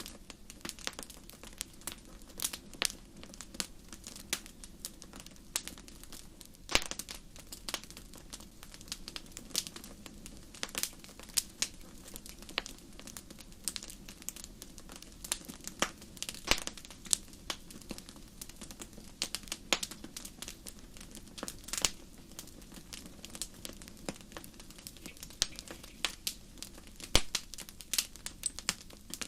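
Wood campfire crackling: irregular sharp pops and snaps, a few louder than the rest, over a steady low rush of burning.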